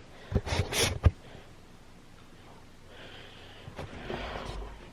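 A few short, sharp breaths close to the microphone in the first second, then faint rustling.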